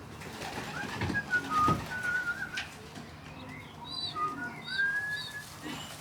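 Young racing pigeons (squeakers) squeaking: a string of thin, high, short whistling peeps, some gliding slightly in pitch, the begging call of baby pigeons. A couple of light knocks sound in the first two seconds.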